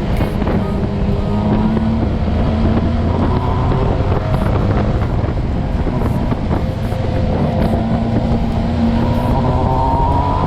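Motorcycle engine running at riding speed with wind rushing over the helmet microphone; the engine pitch climbs near the end as it revs up.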